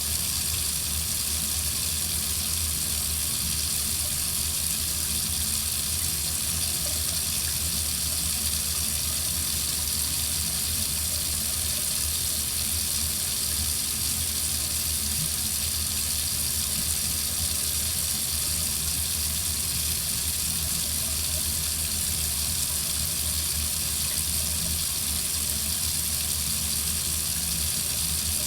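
Water running steadily from a faucet into a sink, a constant hiss and splash with no change.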